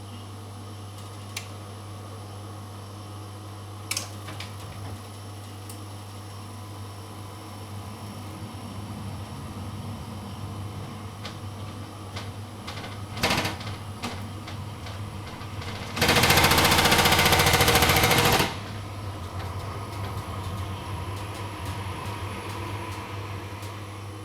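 Vokera Linea 726 gas combi boiler running on central heating with a steady low hum and a few sharp knocks. About two-thirds of the way in comes a loud, rapid rattling bang lasting about two and a half seconds: the banging fault the boiler makes when in use.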